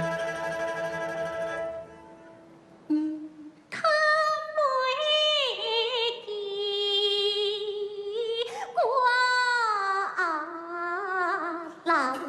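Gezaixi (Taiwanese opera) music: the accompanying instruments hold sustained notes for about two seconds, then a solo voice sings a slow, ornamented melody with wavering, sliding pitch.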